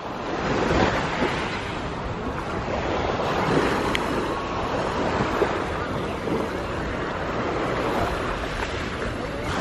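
Lake Superior waves washing onto a black-sand beach in steady surges, with wind buffeting the microphone.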